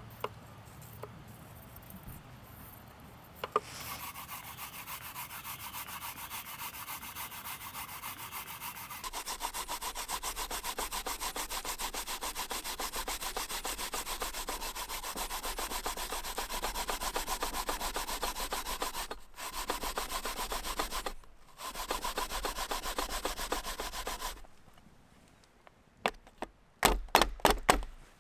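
Fast, steady rhythmic scraping or rubbing, with two short breaks, then a few sharp knocks near the end.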